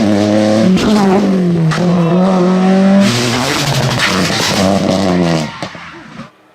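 Rally car engine at full throttle, its pitch climbing and falling several times through gear changes. The sound drops away and cuts off sharply near the end.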